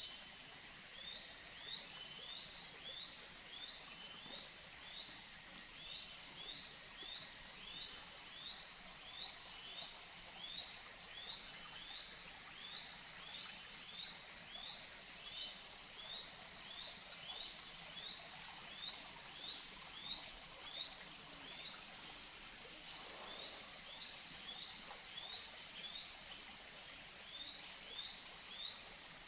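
Tropical forest ambience: a steady high-pitched drone of insects, with a short rising chirp repeated about twice a second from one calling animal.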